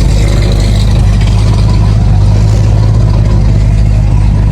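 A car engine idling close by: a loud, steady low rumble that does not change.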